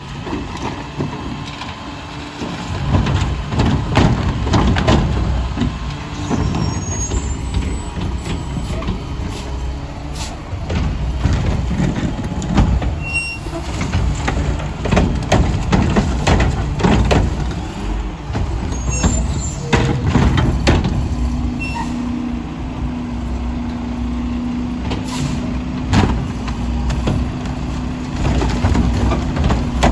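Mack LR garbage truck with a McNeilus Meridian body running, with air brake hisses and repeated clanks and knocks. A steady droning tone comes in about two-thirds of the way through and holds.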